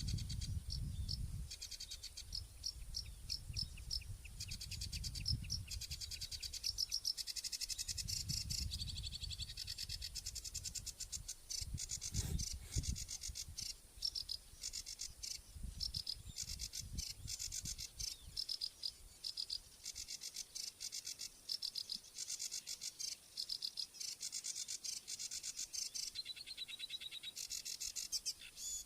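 Crickets chirping in quick repeated pulses, with some bird calls mixed in. A low rumble comes and goes through the first half.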